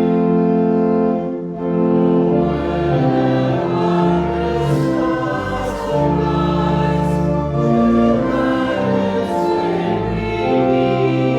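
A group of voices singing a slow hymn together over a sustained keyboard accompaniment, with long held notes and a deep bass line.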